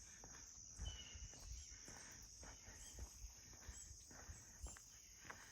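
Faint, steady high-pitched chirring of crickets, with soft irregular footsteps and one short high chirp about a second in.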